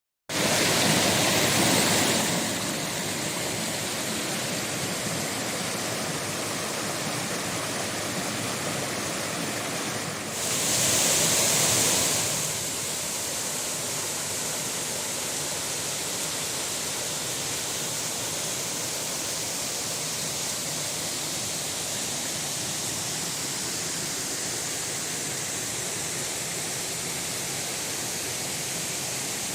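Waterfall pouring in a steady rush of falling water. It is louder and hissier for about two seconds at the start and again about ten seconds in.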